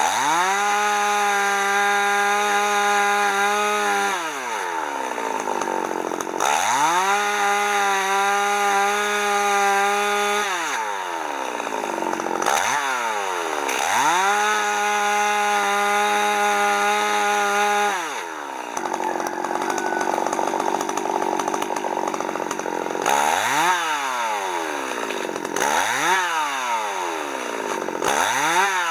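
Chainsaw cutting firewood: the engine revs up and holds at full throttle for about four seconds at a time, three times, dropping back toward idle between cuts. Near the end come several short quick blips of the throttle.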